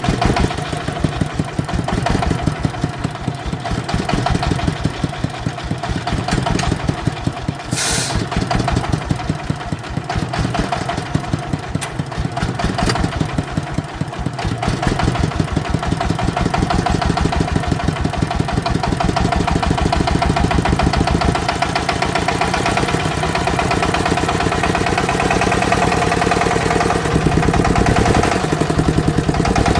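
Engine of a farm vehicle running steadily, with a fast, even chugging throughout. There is a brief hiss about eight seconds in.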